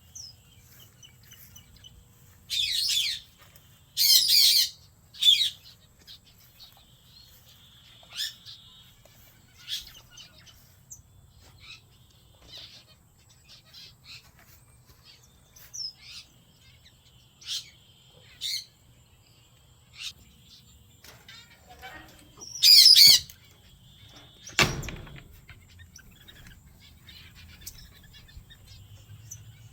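Small aviary finches calling: scattered short high chirps, with louder bursts of calls a few seconds in and again past two-thirds of the way, over a faint steady low hum. A single thump follows the last loud burst.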